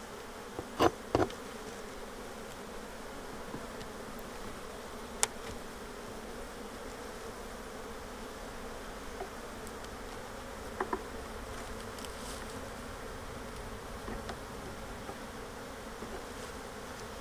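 Honeybees buzzing steadily around an open hive, stirred up by the inspection, with a few short sharp knocks about a second in, near the middle and later on.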